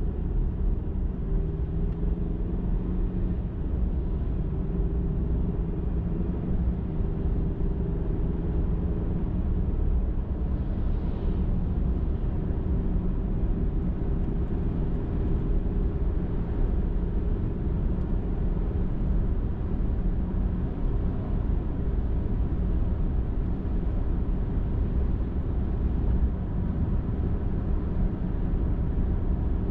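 Car driving at steady highway speed: an even, low rumble of tyres and engine with a faint steady hum.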